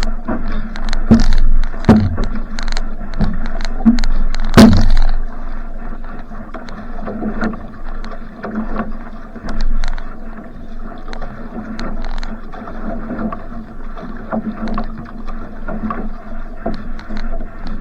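Va'a (outrigger canoe) paddled hard in a sprint: paddle strokes catch the water about once a second with splashing, over water rushing past the hull. The strokes are sharpest and loudest in the first few seconds.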